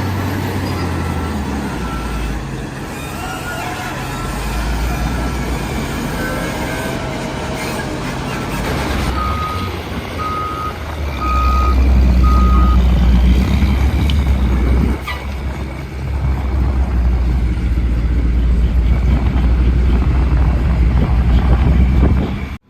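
Heavy truck engine running with a reversing alarm beeping at an even pace, the beeps loudest for a handful of beeps about halfway through. The engine grows louder in the second half.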